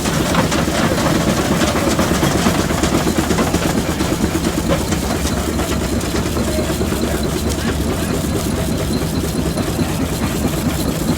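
Antique rock crusher running under engine power, a steady mechanical drone with dense, rapid rattling and clatter.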